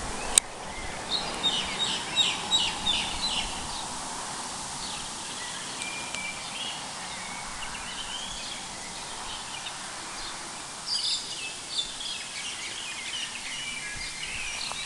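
Birds calling in runs of quick, high chirping notes, once early on and again near the end, over a steady background hiss. A sharp click sounds just after the start.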